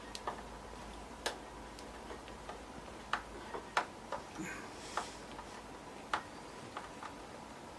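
Irregular small clicks and taps of a screwdriver working screws into the metal case of a desktop PC, fastening a replacement power supply in place.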